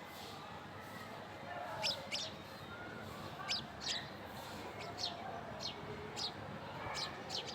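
Small birds chirping: short, sharp chirps that sweep down in pitch, starting about two seconds in and repeating every second or so, often in pairs, over a fainter twittering chatter.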